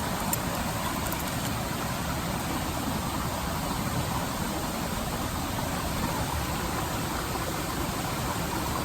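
River water flowing steadily, a continuous rushing murmur, with a few faint ticks in the first second or so.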